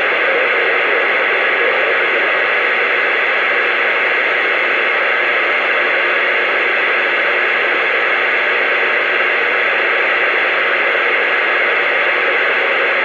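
CB radio receiver giving out a steady, loud hiss of static with no voice on the channel.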